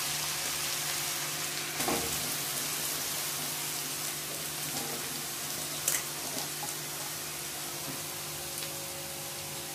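Freshly grated carrots sizzling in hot ghee in a kadai: a steady frying hiss that slowly eases, with a couple of faint clicks. This is the first stage of the halwa, with the carrots starting to fry.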